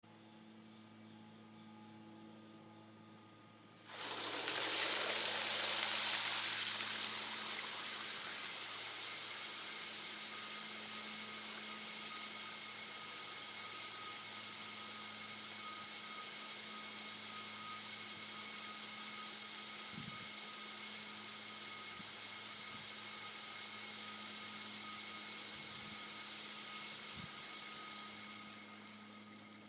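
A steady rush of water from a self-cleaning bird bath, starting suddenly about four seconds in and fading out near the end, over a faint steady hum.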